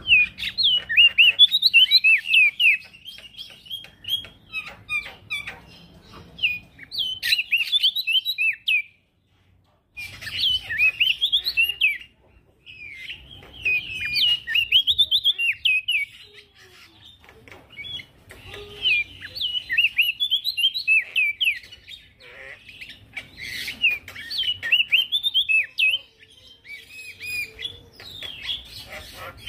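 Male prenjak daun singing vigorously: fast runs of high, twittering chirps and trills in bursts separated by short pauses, with a brief complete break about nine seconds in.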